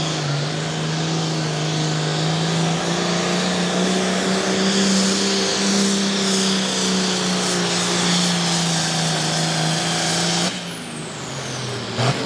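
Turbocharged diesel engine of a farm-class pulling tractor running flat out under load with a steady drone and high turbo whistle. The throttle is cut near the end, the turbo whine winding down in a falling pitch, and a short sharp burst follows about a second later.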